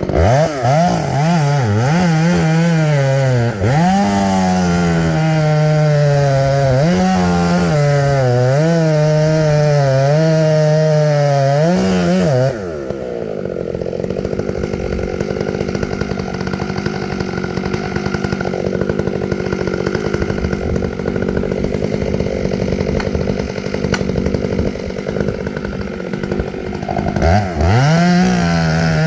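Chainsaw cutting through tree wood at full throttle, its pitch dipping again and again as the chain bogs in the cut. About twelve seconds in it drops back to a quieter, steady run, then revs up again near the end.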